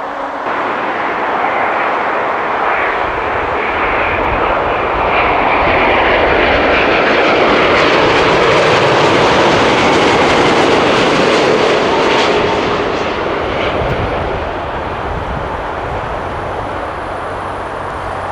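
Jet airliner flying past on landing approach. Engine noise swells to its loudest about halfway through, then fades, with a whine that falls in pitch as the aircraft goes by.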